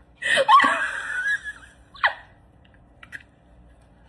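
A person laughing: a burst of laughter lasting about a second, then a short, sharply falling laugh sound about two seconds in.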